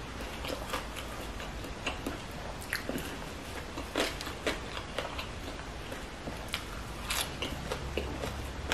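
A person chewing food close to the microphone, with scattered sharp, crisp clicks and crunches.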